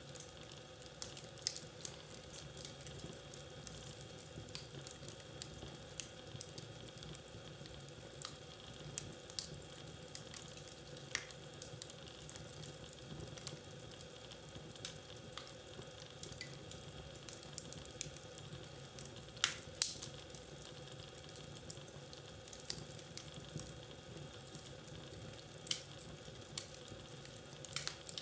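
Wood fire crackling in a fireplace: a steady soft hiss with irregular sharp pops and snaps, the loudest about twenty seconds in.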